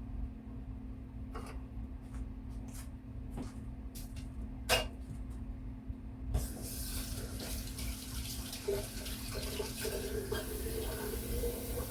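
A few sharp clicks and knocks of handling, then about six seconds in a steady stream of liquid starts pouring into a container and runs on, its pitch rising slightly as the container fills.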